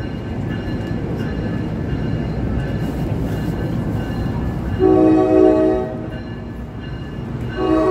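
NJ Transit multilevel commuter train passing close at speed, a steady rumble of wheels on the rails. Its multi-tone horn sounds two blasts: one about five seconds in lasting about a second, and another starting near the end.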